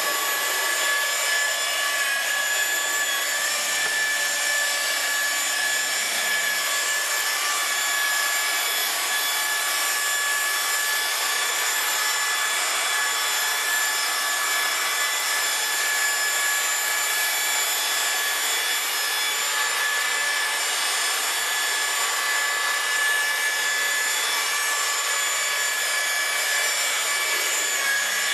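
Electric car-polishing buffer running steadily on the paint, a constant motor whine over a rubbing hiss, which starts suddenly just before and holds level throughout.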